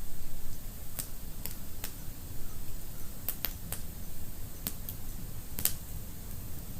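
Wood fire burning in a fireplace: a steady low rumble of flames with sharp, irregular crackles and pops, about nine in under seven seconds.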